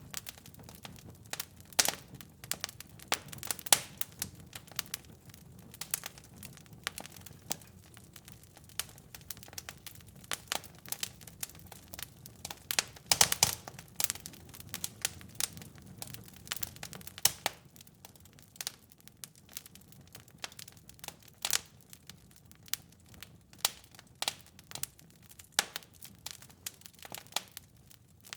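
Wood fire crackling in a fireplace: irregular sharp pops and snaps over a low steady rumble of the flames, with a burst of louder pops about halfway through.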